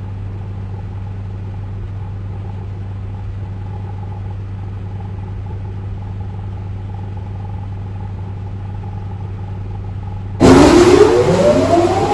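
Ryko Radius automatic car wash machinery humming steadily. About ten seconds in, a loud motor starts suddenly and spins up, its whine rising in pitch.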